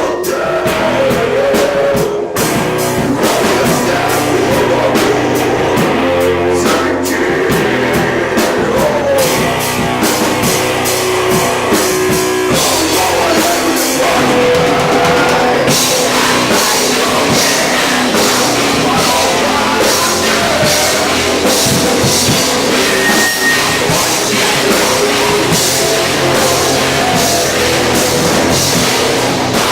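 A heavy rock band playing live, with distorted guitars, bass and a pounding drum kit, and vocals.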